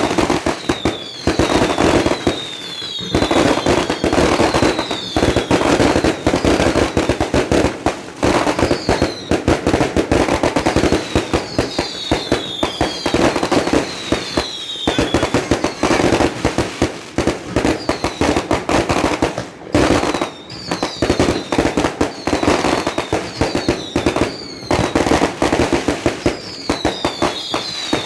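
Fireworks going off without pause: dense, rapid crackling and popping, with clusters of short whistles that fall in pitch every few seconds.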